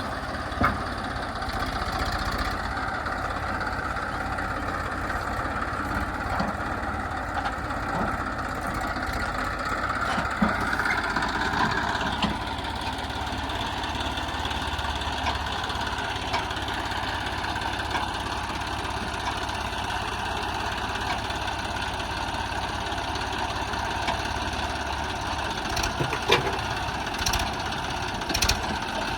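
Diesel engine of a tractor or backhoe running steadily. It rises a little in pitch around ten to twelve seconds in, then settles back, with a few sharp knocks near the end.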